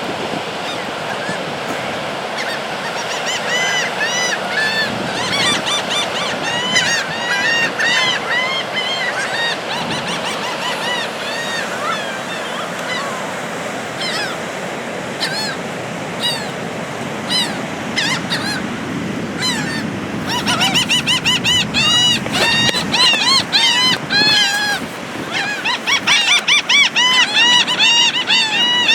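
Gulls calling over and over in short, arched cries, which come in quick, crowded runs in the second half, over a steady rush of strong wind and surf.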